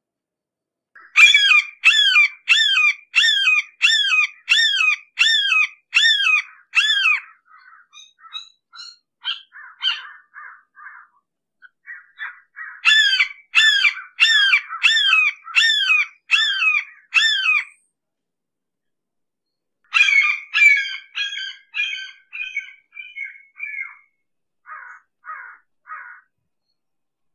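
Red-shouldered hawk calling in three series of loud, repeated screaming calls, each a short down-slurred note, about two a second. The last series fades out, and softer scattered notes come between the series and near the end.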